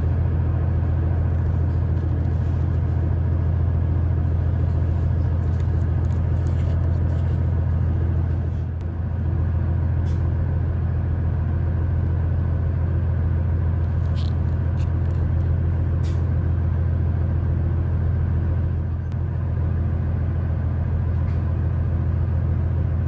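Steady low hum of a train standing at a station, heard from inside the carriage. It dips briefly twice, with a few faint clicks.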